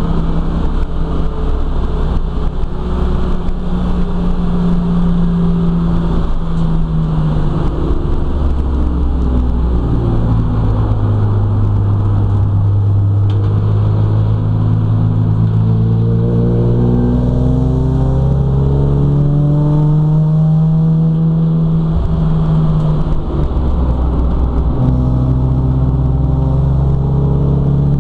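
BMW M3 racing saloon's straight-six engine heard from inside the cabin, its note rising slowly under acceleration, then dropping and climbing again as the driver lifts and shifts through the corners.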